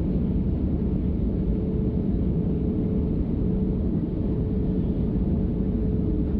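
Airliner cabin noise during descent: the engines and airflow make a steady low drone with a constant hum, without pauses or knocks.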